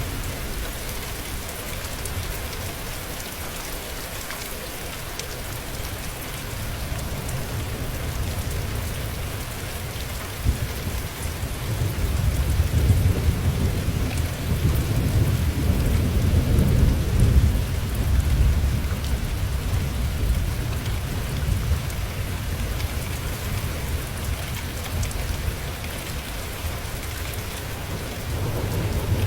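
Steady rain with a long, low roll of thunder that builds about ten seconds in, is loudest in the middle and fades away by about twenty seconds in.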